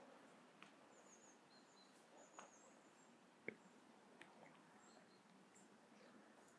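Very faint outdoor ambience: distant birds giving thin, high chirps now and then, over a low hiss. A few soft clicks come at irregular moments, the sharpest about three and a half seconds in.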